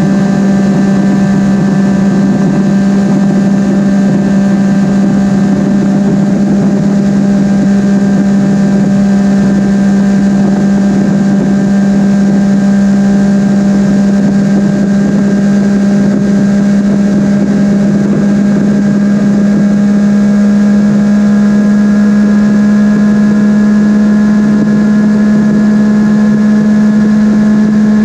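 Triumph Daytona 955i's inline three-cylinder engine running hard at high revs on a very-high-speed run, its pitch creeping slowly upward, under heavy wind rush.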